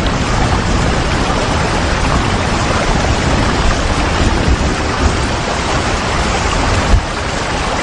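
Steady heavy rain, a dense even hiss with a low rumble underneath. There is one sharp click about seven seconds in, after which the rain is a little quieter.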